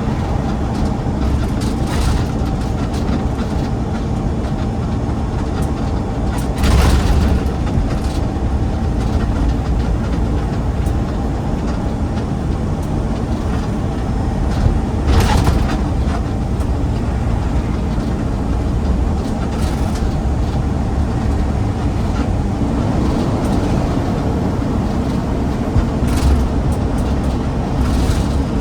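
Garbage truck driving on the road: a steady low rumble with a few brief knocks and rattles, the loudest about 7 and 15 seconds in.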